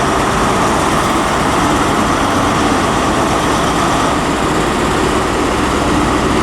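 Diesel engine of a Class 43 HST power car running with a loud, steady drone, with no change in pitch or level.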